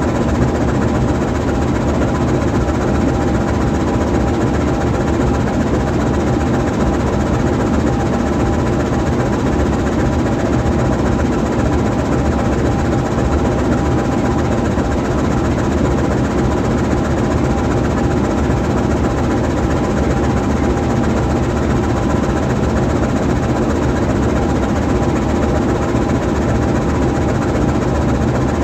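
A GE U20C diesel-electric locomotive's 12-cylinder 7FDL diesel engine idling steadily with the locomotive standing still.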